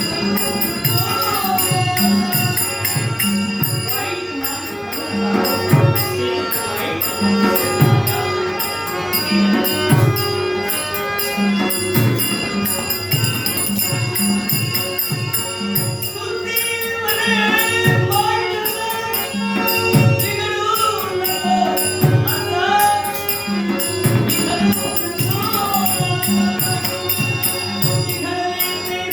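Dashavatar theatre accompaniment: regular hand-drum strokes, steady held tones and small cymbals keeping time. A voice sings gliding lines over it in places.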